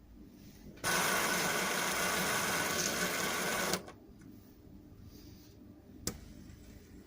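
A small machine runs for about three seconds with a loud, rough, even noise, then stops abruptly, leaving a faint hum. A single click follows near the end. This is the noise the owner calls a terrible, bad sound.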